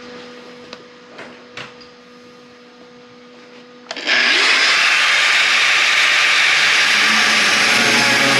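A few light clicks over a low hum, then about four seconds in a power cutting tool starts and cuts steadily and loudly into the car body's sheet metal.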